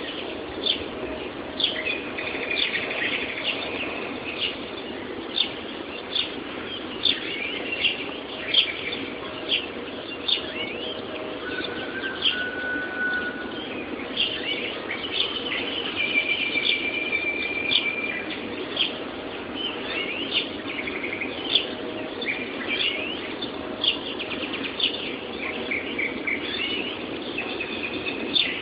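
Spring morning chorus of many songbirds singing at once: dense overlapping chirps and trills, with a few longer held whistled notes, over a steady low hiss. Recorded through a mobile phone's microphone, so the highest notes are cut off.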